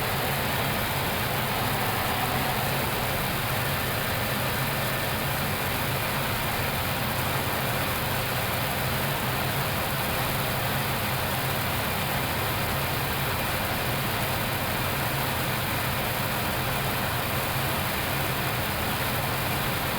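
Steady rush of airflow noise on an Airbus A321neo flight deck during approach, with landing gear down and flaps extended, over a low steady hum.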